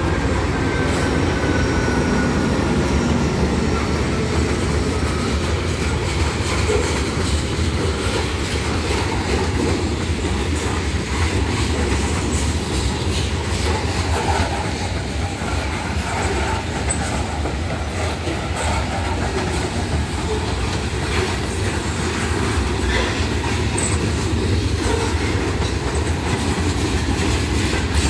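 Freight train passing close by: the mid-train GE diesel locomotives (a Dash 9-40CW and an AC44C6M) go by at the start, then a long string of covered hoppers and tank cars rolls past with a steady, loud rumble of steel wheels on rail.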